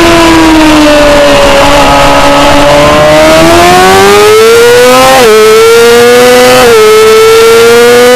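Racing motorcycle engine, loud on the onboard camera: the revs fall away through a corner, then climb as it accelerates out, broken by quick upshifts about every second and a half, each a sudden dip in pitch.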